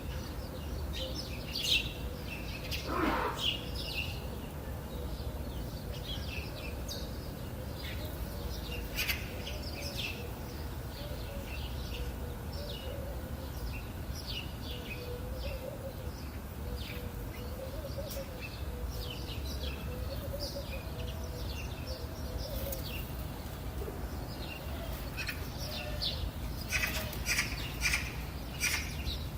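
Several songbirds chirping and calling in short high notes, scattered throughout and growing busier near the end, over a steady low background rumble.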